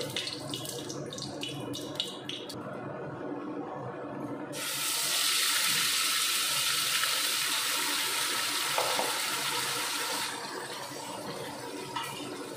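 Wet ground spice paste sizzling in hot oil in a kadhai, a loud hiss that starts suddenly about four seconds in and stops about ten seconds in. A few light clicks come before it.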